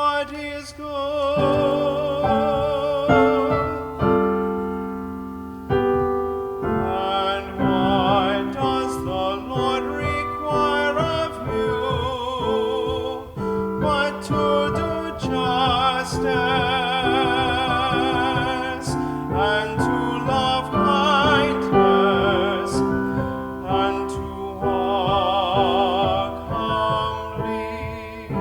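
A solo singer with strong vibrato, accompanied by piano, performing a sacred song.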